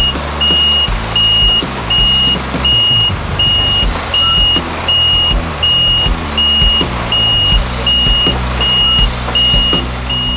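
A heavy vehicle's reversing alarm beeping steadily at an even high pitch, about three beeps every two seconds, over a low rumble.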